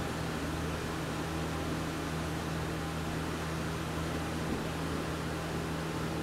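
Ginger-garlic and green-chilli paste frying in oil in an aluminium kadai over a gas flame: a steady sizzling hiss, with a steady low hum beneath it.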